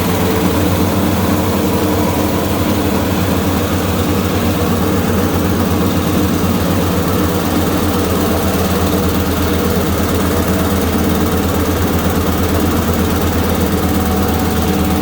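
Rice bran milling machine and the engine driving it running steadily at an even speed, with a low, continuous pulsing hum.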